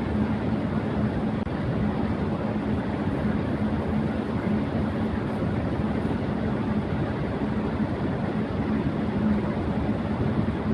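Electric fan running at high speed: a steady rush of air with a steady low hum under it.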